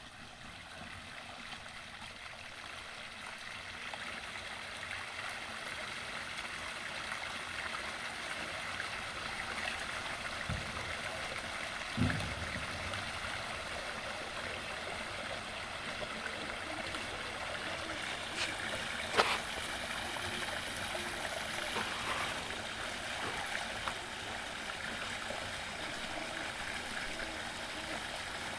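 Water running down a newly built pondless waterfall over rocks. The flow builds over the first few seconds after it is turned on, then holds steady. A low thump comes about twelve seconds in and a sharp click about seven seconds later.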